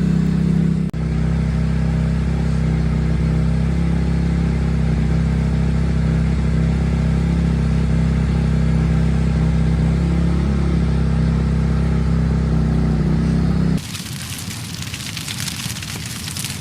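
Dirt bike engine idling steadily. About fourteen seconds in it gives way abruptly to the dense crackle and sizzle of a turkey frying in hot oil.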